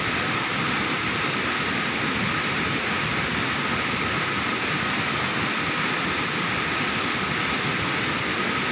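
Medang Pulang waterfall: a steady, unbroken rush of falling water.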